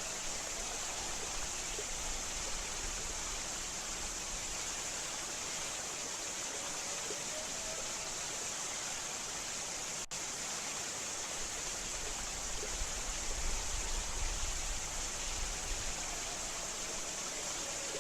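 Jungle ambience soundscape: a steady rushing hiss like a stream under an even high-pitched drone, with a faint rising call twice. There is a momentary dropout about halfway through.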